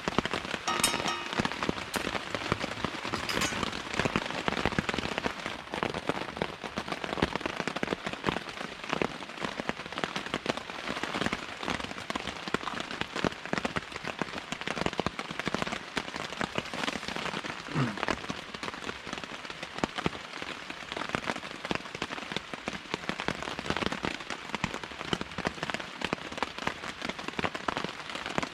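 Torrential downpour: heavy, steady rain with a dense stream of drops striking a surface.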